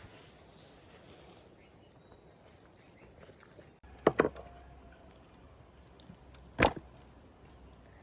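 Sharp knocks or chops: two close together about four seconds in, then a single one about two and a half seconds later.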